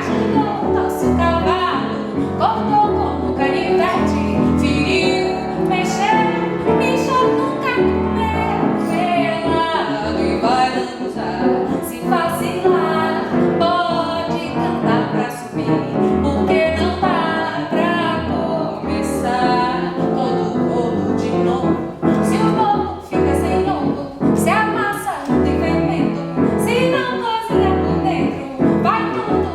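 A woman singing a song with instrumental accompaniment, performed live.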